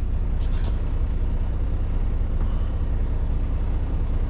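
Semi-truck's diesel engine idling: a steady low rumble with no change in pitch.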